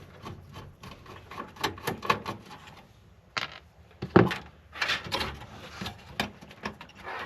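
Irregular clicks, scrapes and knocks of a screwdriver and hardware being handled inside a PC case while motherboard screws are worked out, with a sharper knock about four seconds in.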